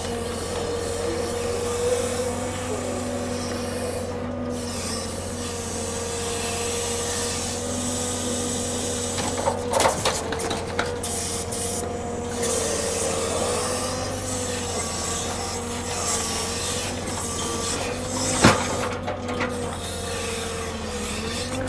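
Log truck's engine running with a steady, slightly wavering whine from its hydraulics, and a few sharp knocks, the loudest about 18 seconds in.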